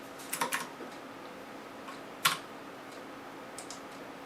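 A few sharp, light clicks: a quick cluster of three or four near the start, one louder click a little past two seconds in, and two faint ones near the end. Beneath them runs a steady faint hum.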